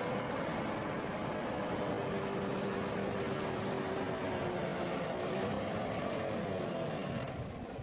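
Heavy construction machine's diesel engine running steadily, its pitch drifting slightly up and down; it eases off a little near the end.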